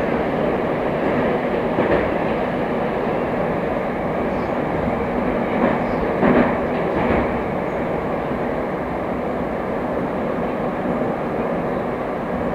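Moscow Metro train running between stations, heard from inside the car: a steady rumble of wheels and running gear with a faint hum. There is a knock about two seconds in and a short cluster of louder rail-joint clacks about six to seven seconds in.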